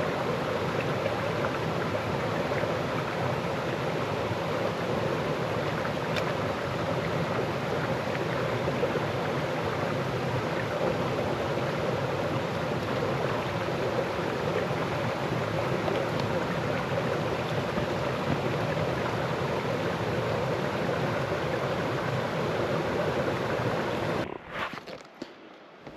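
Mountain stream rushing in a steady, loud wash of water noise. The rush cuts off suddenly near the end, leaving only a few faint ticks.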